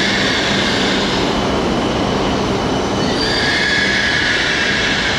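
E5 series Shinkansen train pulling into a station and slowing to a stop, with a steady rumble of wheels on rail. A high squeal, typical of braking, rises over the rumble about three seconds in.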